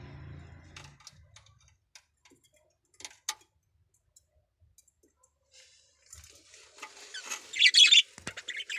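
Small birds: a few scattered faint clicks, then a short loud burst of high, scratchy bird sound about seven and a half seconds in.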